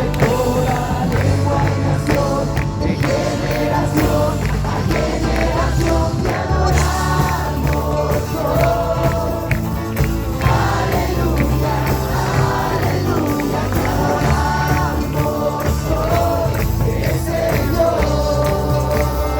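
A group of voices singing a worship song over band accompaniment, with heavy bass and a steady beat.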